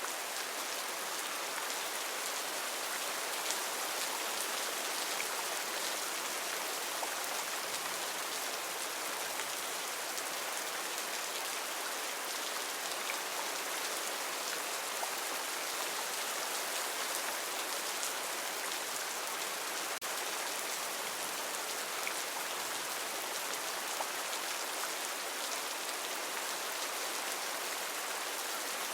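Heavy rain falling steadily on rainforest foliage, a dense even hiss with scattered individual drop ticks.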